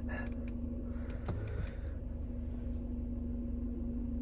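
2014 Mercedes-Benz C250 engine idling steadily after a cold start, a low rumble with a steady hum, with a few light clicks in the first second and a half.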